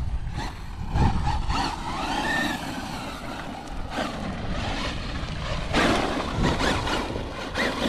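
Electric RC truck driving on dirt: the motor whines up and down in pitch while the tyres scrabble and throw dirt, with several short rough bursts.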